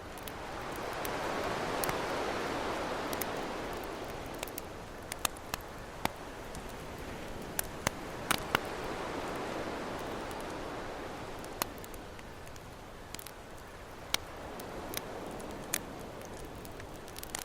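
Ocean waves washing in as slow swells of surf, one building to a peak about two seconds in and another around the middle, with the sharp pops and crackles of a campfire scattered over them.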